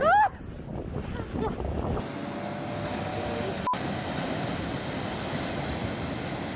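A single honk right at the start, then after a cut about two seconds in, a steady rush of wind and surf. A very short beep sounds near the middle.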